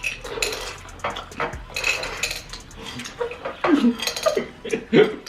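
M&M's candies clattering and scraping in a dish, the dish knocking about, as they are picked up by mouth without hands: a rapid, irregular run of clicks and scrapes.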